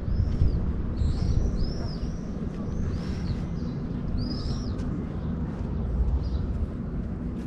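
Birds calling outdoors: a run of short, arched high chirps, thickest in the middle, over a low rumble of wind buffeting the microphone.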